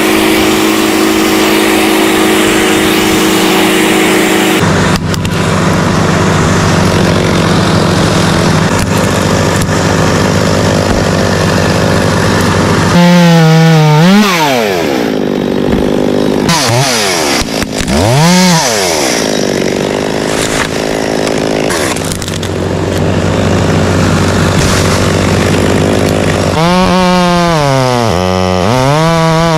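Chainsaws running and cutting wood across several shots. The engine pitch swings up and down in revs about halfway through and again near the end.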